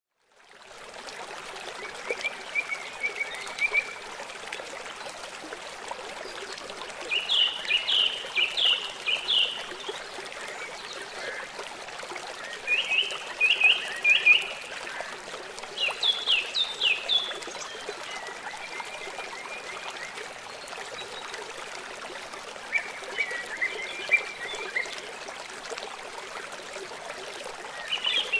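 Steady rush of falling water from a small waterfall. Over it, groups of quick, high chirping calls from an animal come every few seconds, each run lasting one to two seconds.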